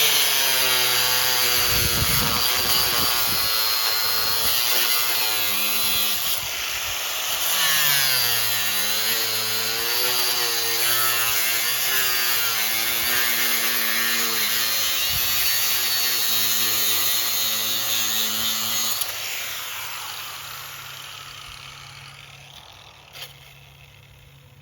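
Corded angle grinder cutting through thick steel, its motor pitch dipping and recovering under load. Near the end it is lifted off the cut and the disc spins down and fades, followed by a single click.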